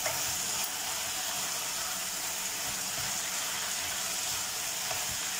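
Drumsticks and potatoes sizzling in oil in a nonstick kadai, a steady hiss, while they are stirred with a silicone spatula.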